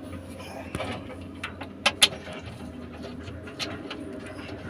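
Scattered sharp clicks and small taps, a few a second and irregular, over a steady low hum: tools and parts being handled during ECU replacement work.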